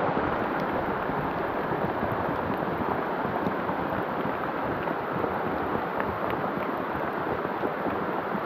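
Heavy rain pouring down onto a lake's surface: a steady, even hiss of countless drops.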